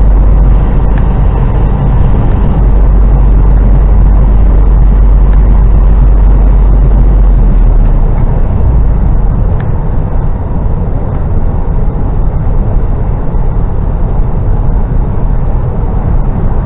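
HGV lorry's diesel engine and road noise heard from inside the cab while driving, with a deep rumble that drops away about eight seconds in.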